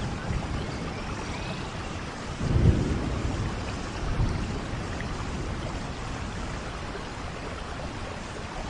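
Steady rainfall with low rumbles of thunder, the loudest swelling about two and a half seconds in and a smaller one at about four seconds.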